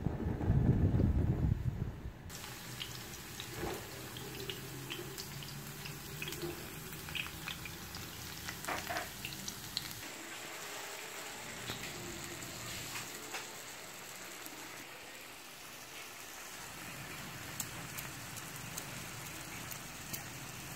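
Cubed potatoes, then carrot pieces, sizzling in hot oil in a frying pan: a steady hiss with scattered pops and crackles. A loud low rumble fills the first two seconds.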